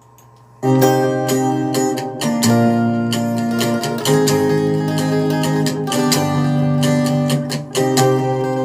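Acoustic guitar strumming chords: an instrumental karaoke backing track (MR) with no vocals. It starts about half a second in, after a faint lead-in.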